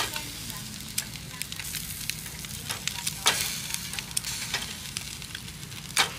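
Food sizzling as it fries in a pan, with sharp clicks of a utensil stirring and scraping against the pan every second or so.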